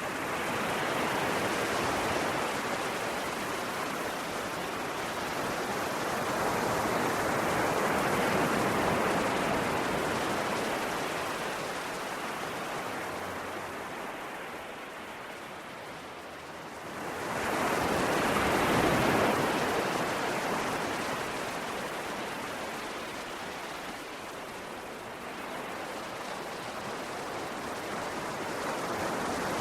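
Ocean waves breaking and washing on the shore in slow surges. The loudest swell builds quickly about two-thirds of the way through, then eases back.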